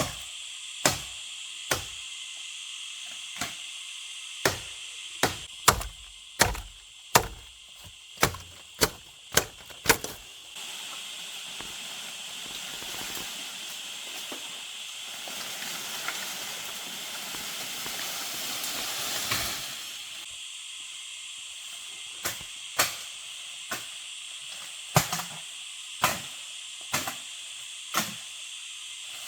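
A run of sharp knocks, roughly one a second, over a steady high hum. About ten seconds in, a hissing rush takes over and builds for some ten seconds before it stops, and then the knocks start again.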